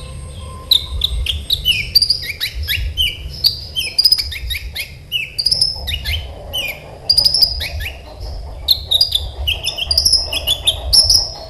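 Kolibri ninja sunbird singing in full voice: a fast, dense string of sharp high chips and short down-slurred notes with hardly a pause, over a low steady hum.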